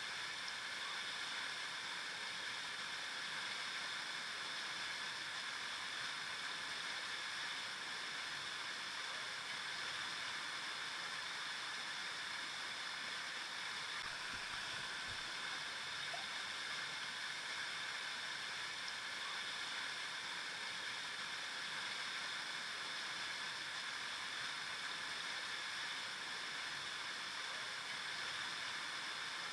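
A river flowing: a steady rushing and gurgling of water over stones, unchanging throughout.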